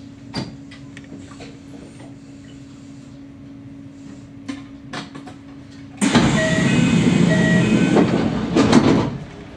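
Kintetsu electric train standing at a station with a steady low hum and a few faint clicks. About six seconds in, a loud rushing noise with short beeping tones starts, lasts about three seconds, then cuts off.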